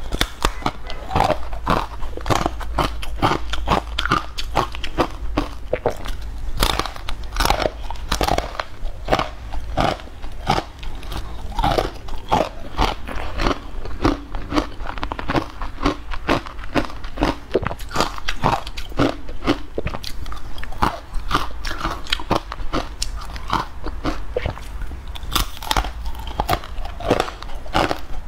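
Close-miked biting and chewing of a crumbly, powdery green food: a dense, irregular run of dry crunches and crackles, several a second.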